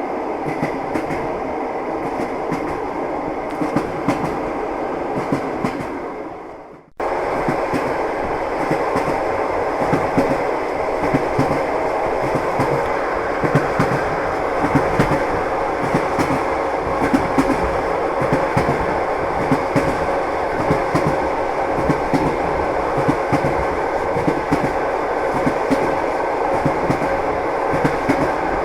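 Train wheels knocking over rail joints, clickety-clack over a steady rumble of the moving train. About six seconds in the sound fades away, then cuts back in abruptly a moment later.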